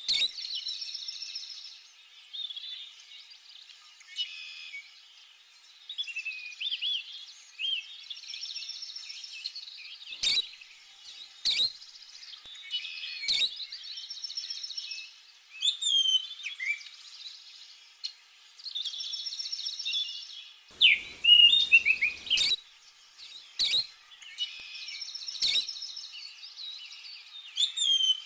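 Small songbirds chirping and trilling over and over, in quick high phrases with rising and falling notes. A few sharp clicks and a short rush of noise about three-quarters of the way through stand out over the birdsong.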